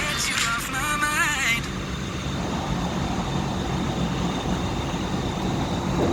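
A pop song with singing cuts off suddenly about a second and a half in, leaving the steady rumble and hiss of a jet airliner's cabin.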